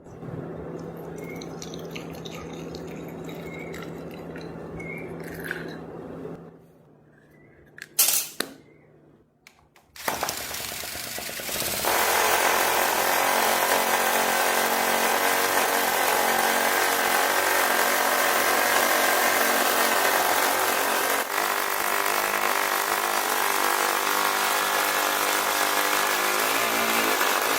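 Small vertical 7cc engine starting about ten seconds in and then running steadily at a fairly constant speed. Before that comes a steady hum, a quiet gap and a sharp click.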